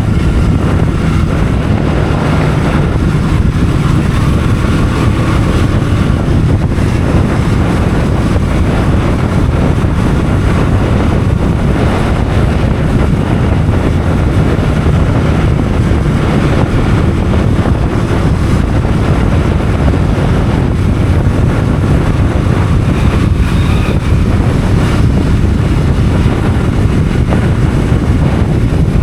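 Loud, steady wind noise buffeting the microphone of a moving motorcycle, with the engine running underneath.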